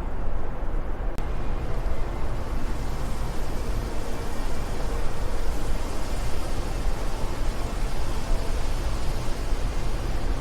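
Steady rushing wind whose level rises and falls slightly in gusts. A faint click about a second in, after which the hiss grows brighter.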